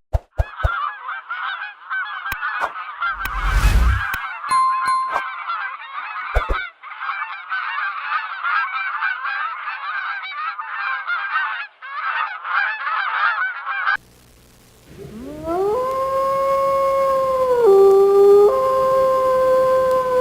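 A dense chorus of many overlapping animal calls, like a calling flock, which stops suddenly about 14 seconds in. After a short pause, a single long howl rises, holds and drops in steps.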